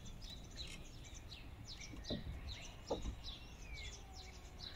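Birds chirping and singing, many short quick calls and sliding whistles, with two faint knocks about two and three seconds in.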